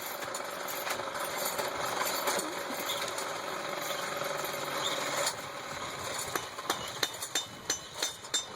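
A steady mechanical whir, which cuts off about five seconds in. Then a blacksmith's hammer strikes steel on an anvil in a run of sharp blows, about three a second.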